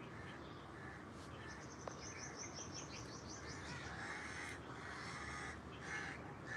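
Crows cawing: repeated harsh calls, loudest in the second half, with a quick run of high chirps about two seconds in.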